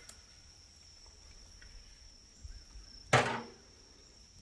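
A single sharp knock about three seconds in, dying away quickly, over a faint steady high-pitched tone.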